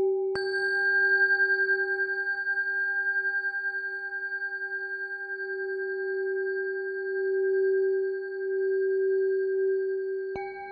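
Tibetan singing bowl tuned to G ringing with a slow pulsing beat; it is struck about half a second in, adding bright higher overtones, and struck again near the end.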